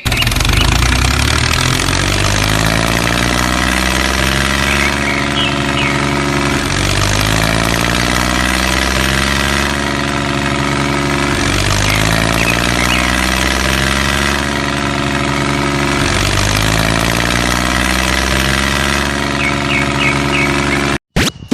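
A loud, steady engine-like running sound whose pitch sags and recovers about every two and a half seconds, then cuts off suddenly near the end.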